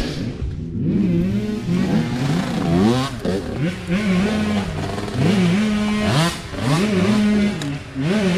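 Several small mini bike engines revving up and down at once, their pitch repeatedly climbing, holding and dropping as the riders work the throttle.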